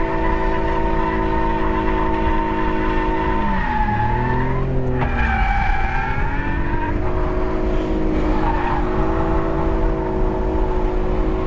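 BMW E46 330i's inline-six engine held at high, steady revs through a drift, with tyre slide noise underneath. About four seconds in, the revs drop briefly and then climb back up before holding steady again.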